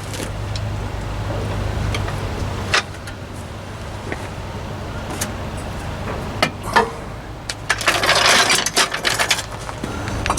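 Metal clinks and knocks as a floor jack is moved out from under the truck's axle, with a longer scraping rush about eight seconds in, over a steady low hum.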